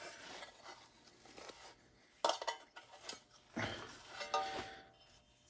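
Metal parts knocking and clinking as the removed front steering knuckle and hub assembly is handled and set down: a few separate clanks, one ringing briefly near the end.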